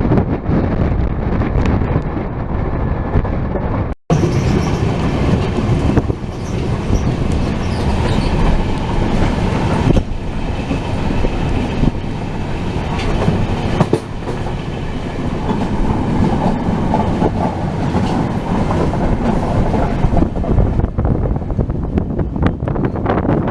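Passenger express train running on rails, heard from on board: a steady rumble of coach wheels on the track with some clickety-clack. There is a brief break about four seconds in.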